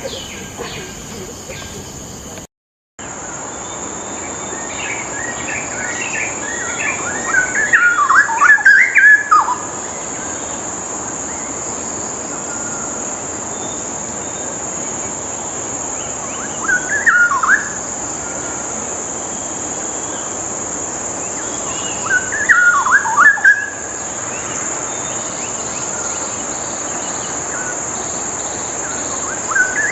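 Straw-headed bulbul singing: loud, bubbly warbled phrases of quickly jumping notes, four of them a few seconds apart, over a steady hiss. The sound cuts out briefly about two and a half seconds in.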